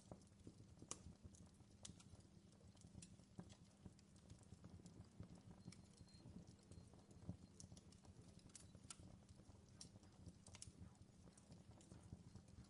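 Faint campfire crackle: burning wood giving irregular sharp snaps and pops over a low, steady rumble.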